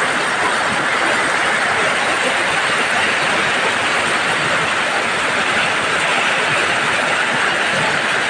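Heavy rain pouring down, a loud, steady, unbroken hiss.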